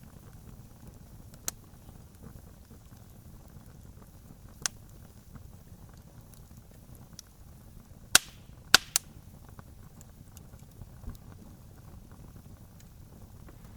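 Wood campfire crackling: a steady low rumble with scattered small crackles, a few sharp single pops, and a quick run of three loud pops about two-thirds of the way through.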